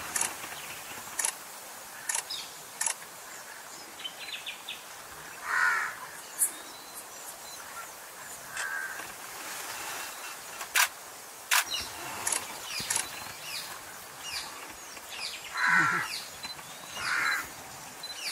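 Wild birds calling: many short, sharp high chirps and a few longer, lower calls, over a steady background hiss.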